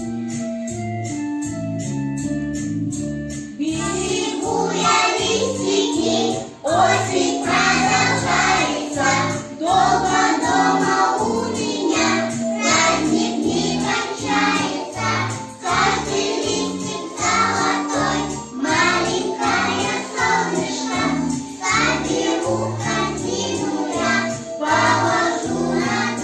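A song with a backing track: a few seconds of keyboard and bass instrumental with a steady beat, then voices singing over it from about four seconds in.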